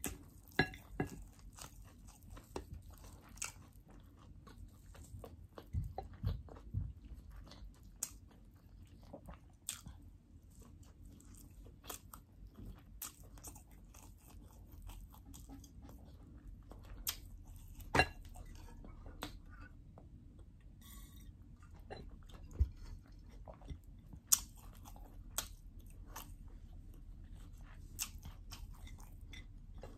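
A person chewing and biting chicken fried rice, with irregular sharp crunches and clicks scattered through, a few of them louder.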